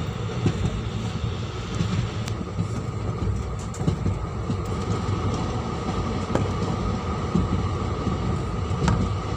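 Indian Railways superfast express train running on the track: a steady low rumble of wheels on rail, with a few sharp clicks scattered through.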